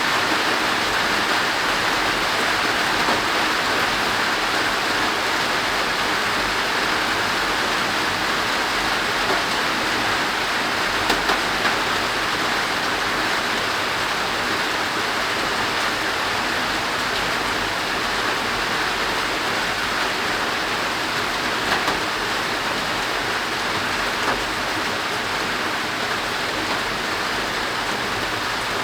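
Heavy rain falling steadily on the roof overhead, with a few sharper drop hits, easing a little toward the end as the back edge of the downpour arrives.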